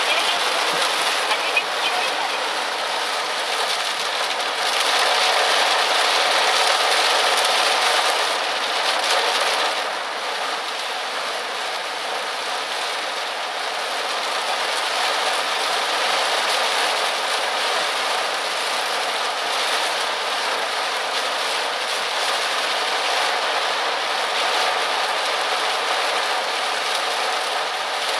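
Torrential cloudburst rain falling heavily on a moving car on an expressway, a dense steady rush of rain mixed with road noise, louder for a few seconds about five seconds in.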